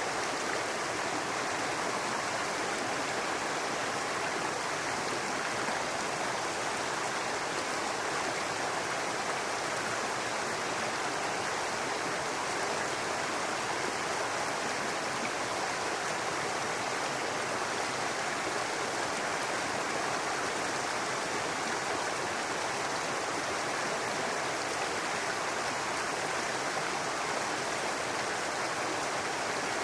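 Brook running steadily, an even rush of babbling water.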